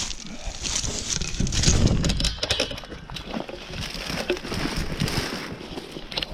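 Footsteps with rustling and crackling of brush and undergrowth, as someone pushes down through dense, spiky vegetation.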